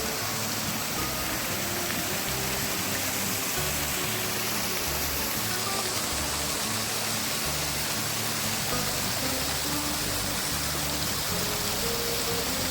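Steady rushing of a stream or small waterfall, with background music playing over it.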